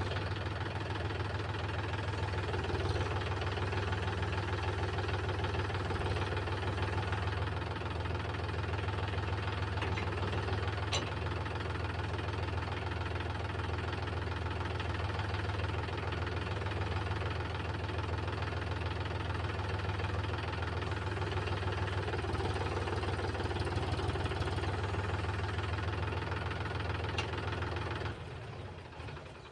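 Tractor's diesel engine running steadily with a fast, even knocking beat; the sound drops away sharply near the end.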